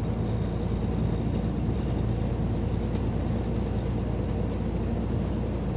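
Semi truck's diesel engine drone and tyre road noise heard inside the cab while cruising at highway speed, steady and even; the engine is running smoothly in the cold.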